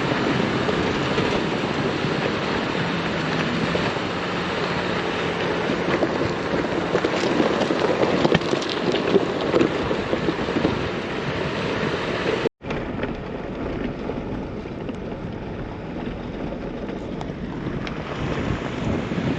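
Off-road vehicle driving on a rough dirt mountain road: a steady rumble of tyres and cab noise mixed with wind on the microphone. About twelve seconds in the sound cuts out for an instant and resumes duller.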